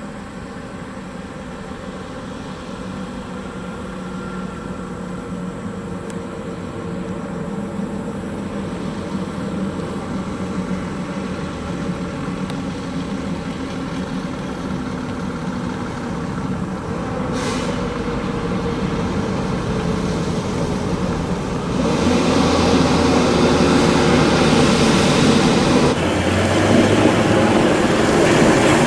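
Heavy coal-hauling truck approaching, its engine running with a steady low hum and a broad rumble of tyres and body that grows steadily louder, stepping up about 22 seconds in. A brief hiss sounds about 17 seconds in.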